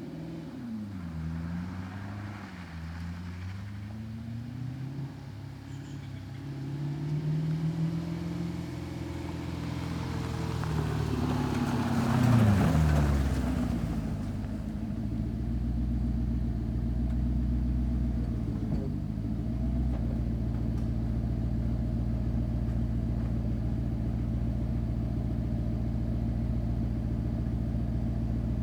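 Lexus SC400 drift car's engine running with its revs rising and falling, then dropping sharply about halfway through and settling into a steady idle.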